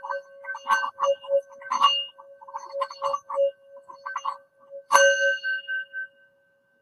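Singing bowl ringing with a steady, pulsing tone, kept going by a quick, irregular run of taps or rattles against it. It takes one hard strike about five seconds in, and the ringing is cut off about a second later.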